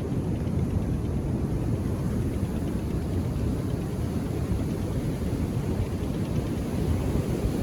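Ocean surf on a beach: a steady, low rumble of waves without separate crashes standing out.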